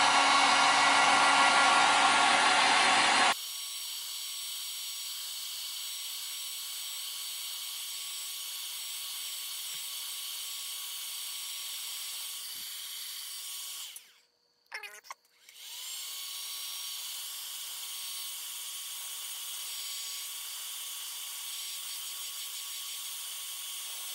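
Heat gun blowing hot air to dry a freshly washed EVA foam rod grip, a steady fan-like rush with a faint whine. About three seconds in the sound drops suddenly to a thinner, quieter hiss. It cuts out briefly about two-thirds of the way through.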